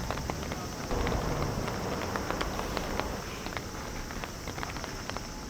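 Heavy rain falling steadily, with many individual drops tapping sharply on nearby surfaces.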